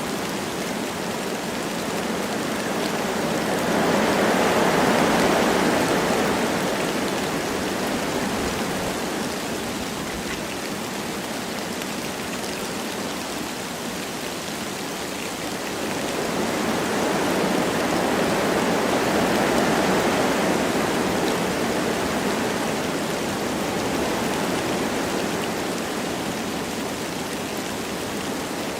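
Wind blowing through forest trees with light rain falling, a steady rushing noise that swells in two long gusts, one about four seconds in and a longer one in the second half.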